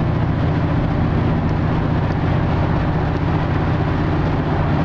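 A 1965 Chevy C20 pickup's carbureted 350 small-block V8 running steadily while the truck drives on the road, mixed with tyre and road noise, heard from inside the cab.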